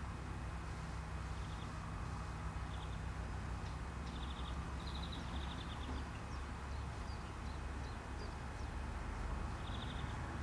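Outdoor ambience: a steady low rumble, with a small bird's short, rapid buzzy chirps coming in a few groups, most around the middle and again near the end.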